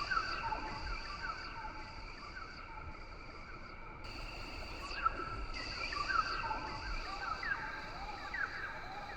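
Rainforest ambience: a steady high insect drone that comes and goes every few seconds, under many short chirping and gliding animal calls, with a faint low rumble beneath.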